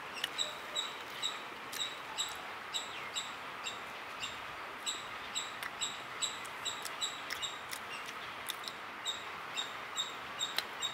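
A person chewing a mouthful of soft cream cake with her mouth closed: a string of small, irregular wet lip-smacking clicks, two or three a second, over a faint steady background hiss.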